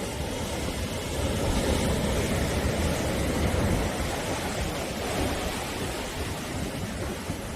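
Ocean surf: waves washing onto the shore in a continuous rush of noise, with a deep low rumble, swelling slightly about two to three seconds in.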